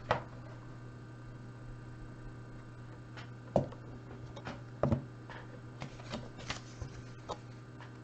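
Scattered light clicks and rustles of handling, with two sharper knocks about three and a half and five seconds in, over a steady low hum.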